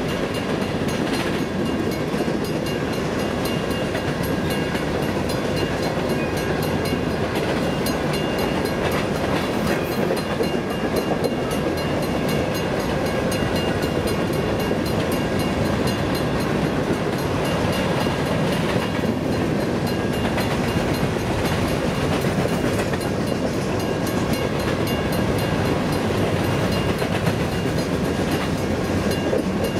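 Covered hopper freight cars rolling steadily past, steel wheels rumbling and clacking on the rails, with a grade-crossing warning bell ringing.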